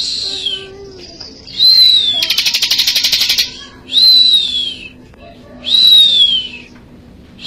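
A ciblek (prinia) singing: loud whistled notes that rise and then fall, repeated about every two seconds. After the second note comes a fast buzzy rattle that lasts just over a second.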